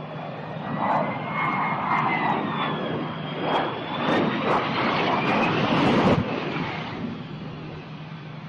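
Airplane engine roar with a high turbine whine that slowly bends up and down in pitch, loudest in the middle and dropping off after about six seconds.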